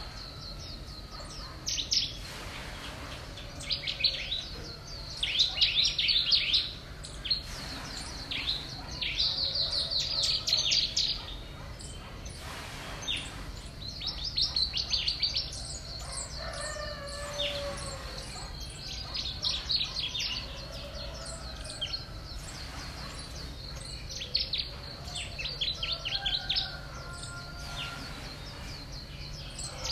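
Small birds chirping in quick, repeated trills, over a steady high tone and a low hum.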